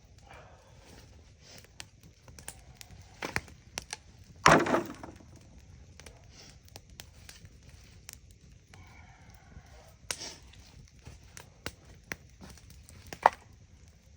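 Wood fire crackling with scattered sharp snaps and pops. A much louder crack with a short ringing tail comes about four and a half seconds in, and strong single snaps come about three seconds in and near the end.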